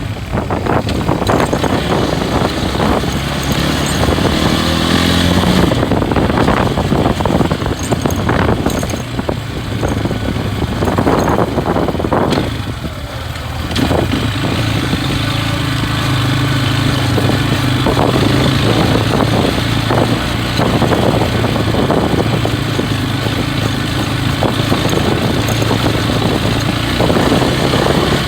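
Loncin SX2 250 motorcycle engine running under way, rising in pitch as it revs up about four seconds in, easing off briefly near the middle, then pulling steadily.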